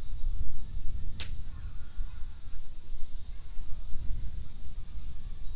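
Outdoor ambience: a steady high-pitched hiss over a low rumble, with one short sharp click or swish a little over a second in.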